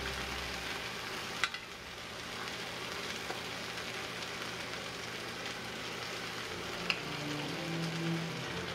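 Whole chicken sizzling in hot fat in a cast iron skillet as it browns: a steady frying hiss. Two sharp clicks come through it, about a second and a half in and near the end.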